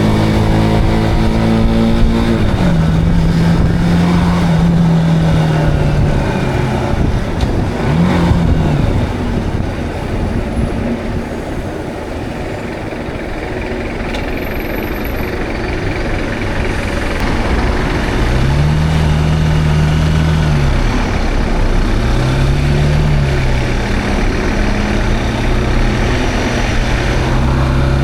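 Zontes cruiser motorcycle engine running on the road, with wind and road noise on the action camera. The engine's pitch drops about two seconds in, gives way to an even rush of noise through the middle, then rises and falls several times in the second half as the revs come up and back down.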